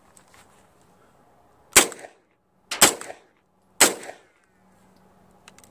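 Three single shots, about a second apart, from a suppressed PTR 9CT, an MP5-clone 9mm, firing Aguila 147-grain rounds.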